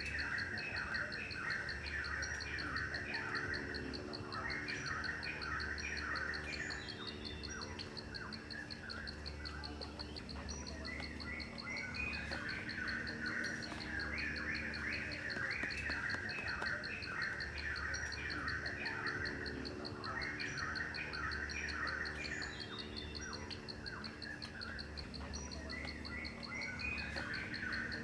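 A steady, rapidly pulsing insect trill, like a cricket's, with birds chirping in repeated phrases that break off every few seconds, over a faint low steady hum.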